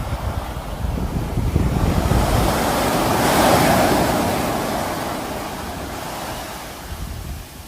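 Sea waves breaking on the shore: one wave swells, peaks as a loud rushing crash about three and a half seconds in, and washes away, fading near the end.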